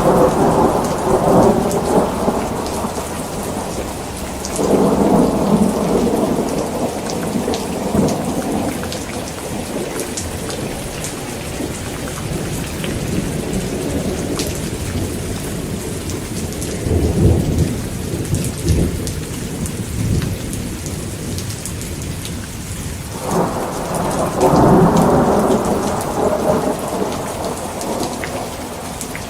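Heavy rain falling steadily during a thunderstorm. Long rolls of thunder rumble four times: at the start, about five seconds in, a deeper one about seventeen seconds in, and another from about twenty-three seconds in.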